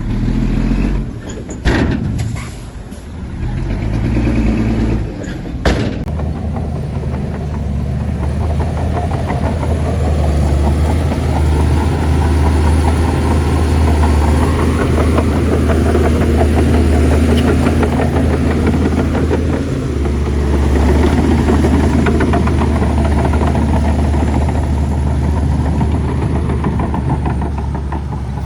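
Heavy diesel engine of a bulldozer working under load, a steady deep drone that swells and eases. There are two sharp knocks in the first six seconds.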